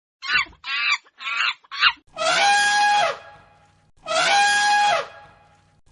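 Animal calls: a quick run of four short calls, then about two seconds in, long loud screeching calls, each about a second long and falling in pitch at the end, repeated twice.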